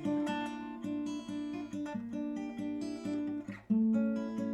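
Acoustic guitar playing chords as picked notes, one after another, between sung verses. A short break comes about three and a half seconds in, then a louder new chord rings.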